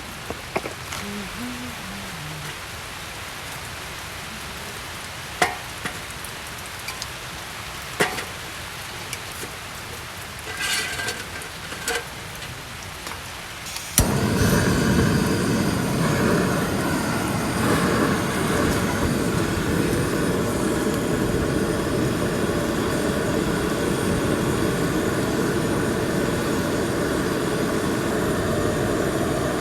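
Rain falling steadily with a few scattered drip knocks; about halfway through it turns suddenly much louder and denser, a heavy, even downpour.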